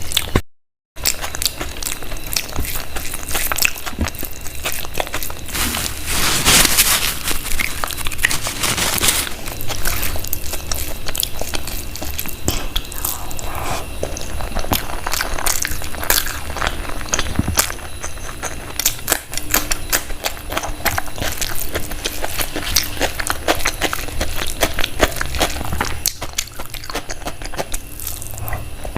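A person chewing and biting food, with dense clicking mouth noises throughout. The sound cuts out to silence briefly just under a second in.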